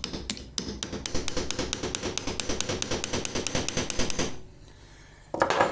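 Hammer rapidly tapping a steel punch against a lawnmower drive axle, a quick even run of sharp metallic blows about six or seven a second for about four seconds, to drive a small key out of the axle groove; the blows shift the axle back and forth rather than freeing the key.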